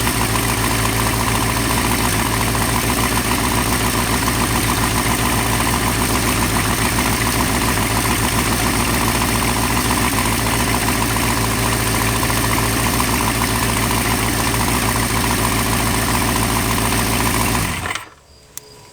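Honda CB550's air-cooled inline-four engine idling steadily, then cutting off suddenly near the end.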